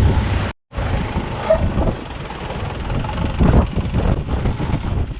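Longtail boat engine running steadily under way, with wind and water noise. The sound cuts out completely for a moment about half a second in.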